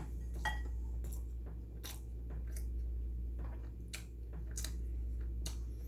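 A person chewing and eating close to the microphone: irregular short, crunchy clicks and wet mouth sounds, over a steady low hum.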